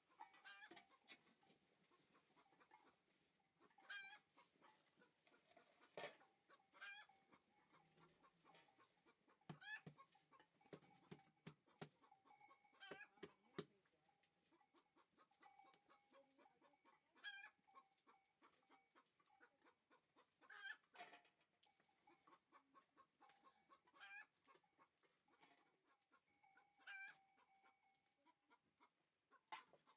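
Faint chickens clucking, with short sharp calls every few seconds.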